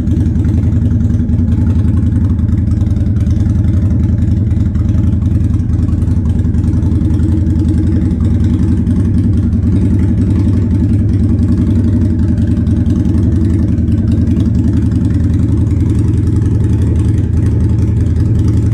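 2006 Harley-Davidson Sportster's air-cooled V-twin idling steadily on a cold start, with the choke still on because of the cold.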